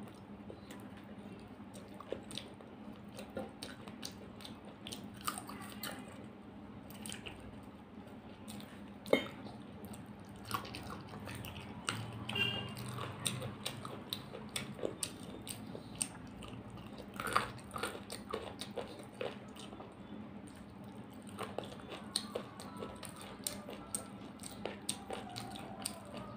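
Close-miked eating by mouth: chewing and lip-smacking on chicken curry and rice, with many short, sharp mouth clicks scattered throughout.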